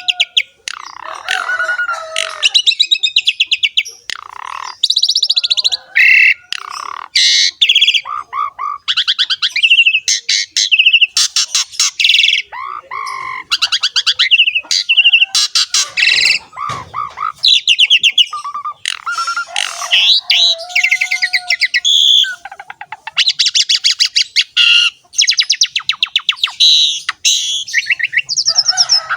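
Asian pied starling (jalak suren) singing a long, varied song: rapid chattering trills, clear held whistles and harsh scratchy notes, one phrase after another with only short breaks.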